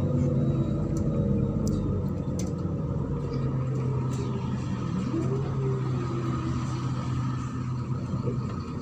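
MAZ-103.486 city bus under way, heard from inside: a steady engine and road rumble. About five seconds in, the engine note rises in pitch as the bus pulls away or accelerates, and a few short rattles come near the start.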